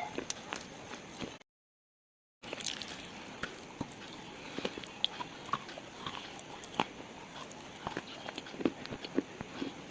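Slate being crunched and crumbled: many irregular sharp crackles and small snaps, broken by about a second of dead silence.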